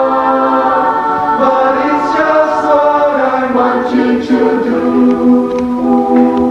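Choir singing in harmony, holding long chords, with the voices moving to new notes partway through.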